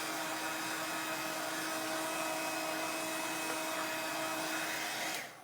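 Small handheld hot-air dryer running with a steady whir and a faint motor hum, switched off near the end.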